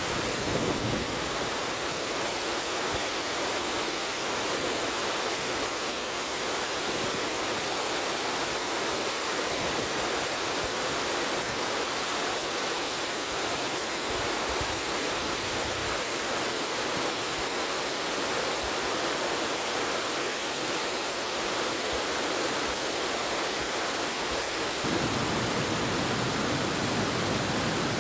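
River water rushing in a steady, even hiss. About 25 seconds in it turns fuller and deeper.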